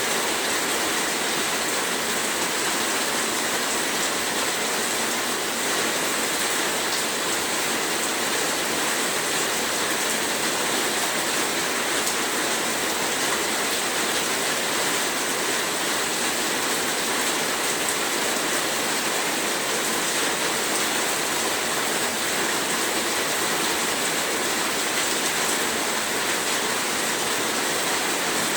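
Heavy rain falling steadily: a dense, even hiss of downpour with no pauses or changes.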